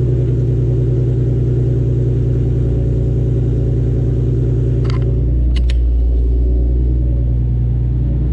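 2013 Nissan 370Z's 3.7-litre V6 idling loud on a cold start after months of storage. About five seconds in, a couple of brief clicks occur and the idle note shifts lower.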